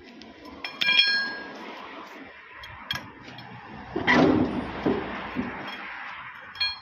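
Metal tools and parts clinking during repair work: a struck piece of steel rings out about a second in, then a scraping clatter, then another short ringing clink near the end.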